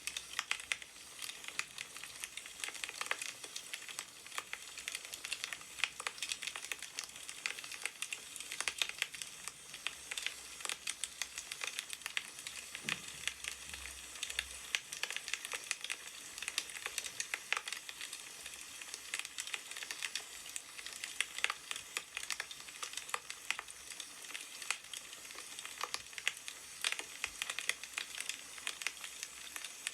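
Burning firewood crackling and popping steadily, a dense run of small pops and snaps.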